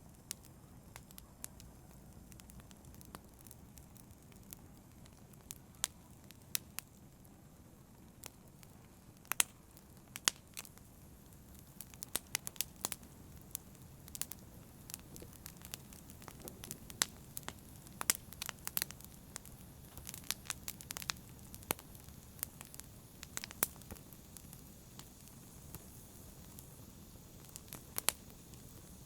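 Campfire burning: a low steady rumble of flames with sharp, irregular crackles and pops from the wood, coming thick in some stretches and sparse in others.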